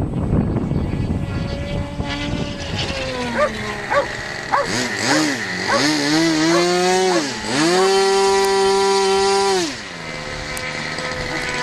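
Radio-controlled model aircraft engine revving: its pitch swings up and down several times, then holds high and steady for about two seconds before dropping back to a lower run, with wind noise underneath.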